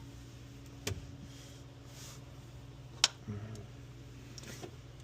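A few sharp clicks and a light knock of a 10 mm socket wrench and metal parts being handled while the hybrid battery's ground bolt is taken off, over a faint steady hum. The loudest click comes about three seconds in.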